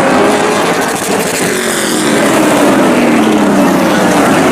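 A field of race trucks running at speed on a short oval track. Several engine notes overlap, and their pitch falls as trucks go past.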